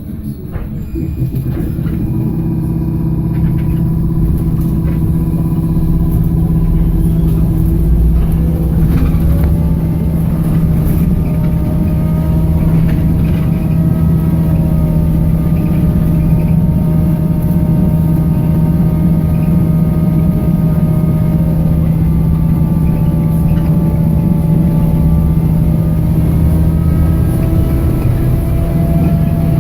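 BKM-321 trolleybus under way: a steady low hum and road rumble, with the electric traction drive's whine in several tones that glide up as it speeds up about a third of the way in, then dip and rise again near the end.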